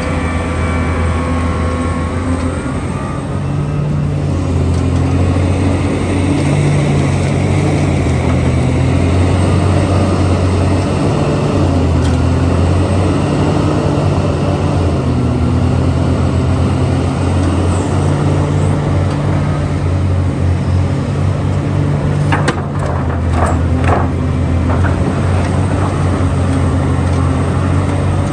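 Diesel engine of a backhoe loader running steadily, its low pitch shifting up and down every few seconds. A few sharp knocks come about two thirds of the way through.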